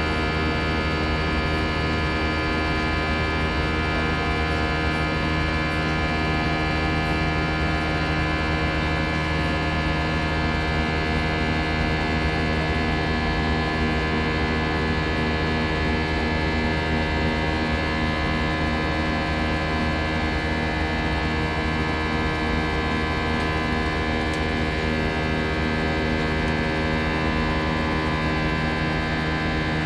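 Airbus A319 cabin noise in flight: a constant, even drone with many steady tones humming through it.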